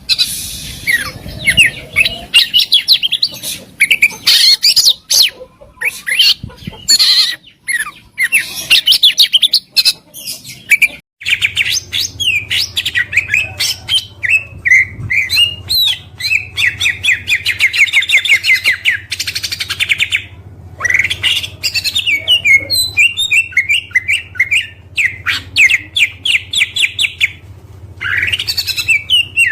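Oriental magpie-robin (kacer) singing a dense, varied song of whistles, chirps and rapid runs of evenly repeated notes. A low steady hum comes in about eleven seconds in.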